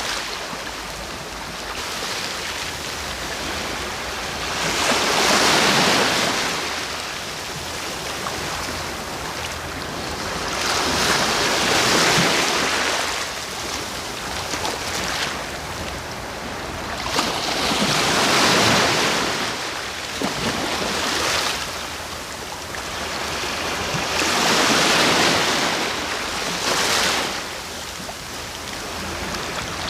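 Sea waves breaking and washing ashore, the surf swelling and fading about every six to seven seconds, with four larger surges.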